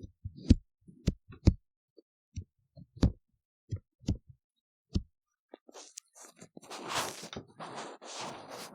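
Ear-cleaning tool working inside a silicone ear-model microphone: separate soft taps and thuds for about six seconds, then continuous scratchy scraping from about two-thirds of the way through.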